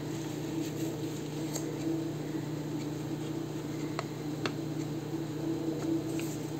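Quiet handling of paper pieces on a craft table, with a few soft ticks and light rustles over a steady low room hum.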